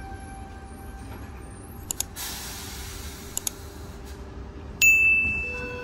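Electric suburban train at a station platform: a steady whine that stops about a second in, a few clicks, a hiss of air for about two seconds, then a sudden loud high tone near the end that fades away.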